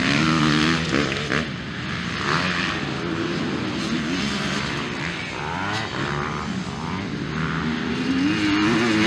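Motocross motorcycle engines racing, their pitch rising and falling as riders work the throttle and shift, with more than one bike heard at once.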